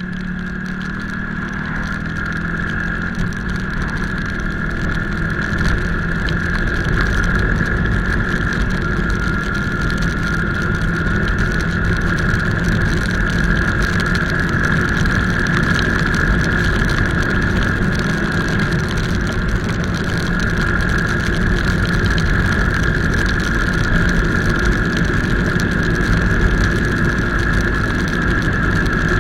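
Motorcycle running on the road, a steady engine rumble with a steady high whine above it, growing slowly louder over the first several seconds.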